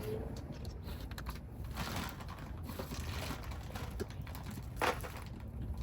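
Objects being handled: scattered light clicks and crackling rustles, with one sharper click or knock about five seconds in, over a steady low rumble.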